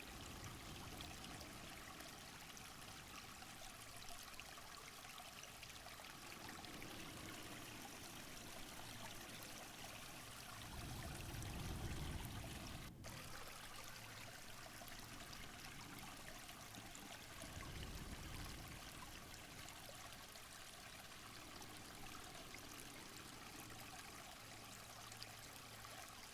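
Faint, steady rush of running water, swelling a little twice, about halfway through and again a few seconds later.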